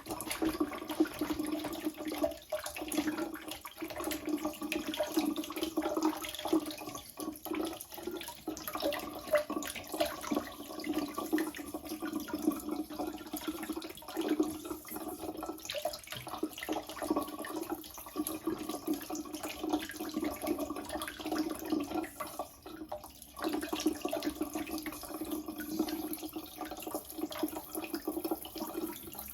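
Water running steadily from a leaky faucet into a sink, still flowing even though the shut-off valve under the sink has been closed.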